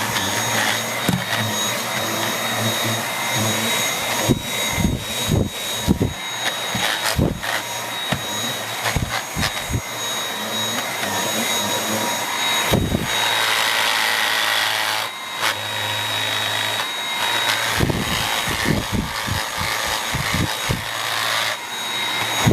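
Dyson V8 cordless vacuum running with a steady high whine while its mini motorised brush head works over a chair's upholstery, with bursts of clattering and knocking. On uneven surfaces like this the brush roll clatters in its housing, which the owner says it has done since new without affecting performance.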